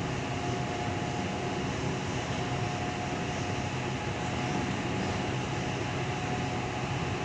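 Steady running noise inside a moving Tangara electric train carriage, with a faint steady whine over it.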